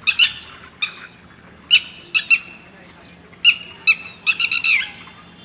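An adult bird giving loud, shrill alarm calls, single and paired and then a quick run of several about four seconds in: a parent calling in distress over its missing chick.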